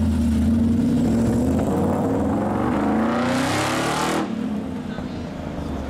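Supercar engine running, then revving up with its pitch rising for a couple of seconds before it cuts off abruptly about four seconds in.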